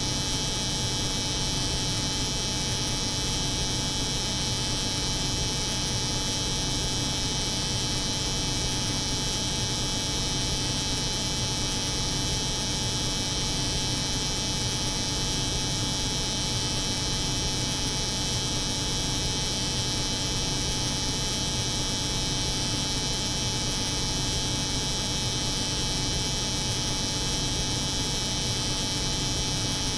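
Steady layered hum: a cold room's drone mixed with the buzz of an electric hair clipper, unchanging throughout.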